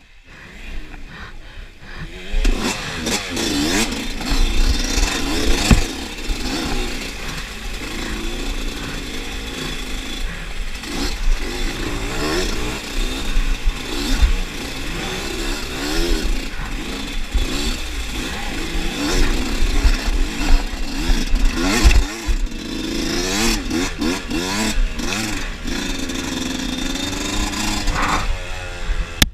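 Dirt motorcycle engine revving up and down continuously as the throttle is worked, with a steady noisy rush over it and a few sharp knocks, one about six seconds in and one about 22 seconds in.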